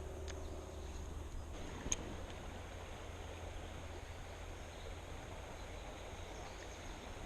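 Steady riverside ambience: a low rumble with an even hiss of flowing water, and a single sharp click about two seconds in.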